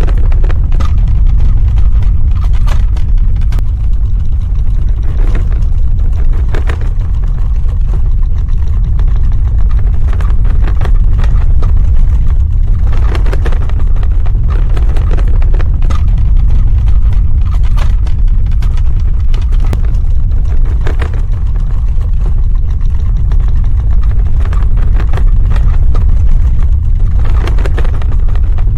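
Earthquake sound effect: a loud, steady deep ground rumble with crackling and rattling over it, swelling into stronger bursts of crackle every seven or eight seconds.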